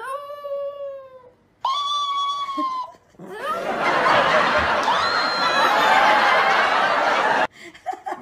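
Chihuahua howling: two long drawn-out howls that slide in pitch, then from about three seconds in a louder, rougher stretch with howling mixed in, which cuts off suddenly about seven and a half seconds in.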